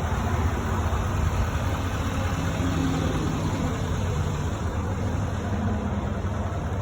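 2019 Chevy 2500's 6.6-litre Duramax turbo-diesel V8 idling steadily, heard from inside the cab as a low, even rumble.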